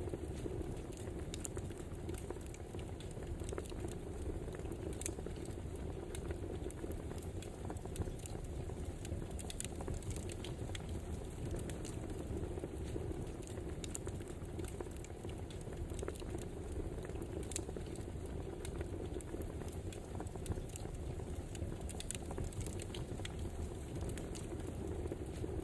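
Wood fire crackling: a steady hiss and rumble with frequent small sharp pops and snaps scattered throughout.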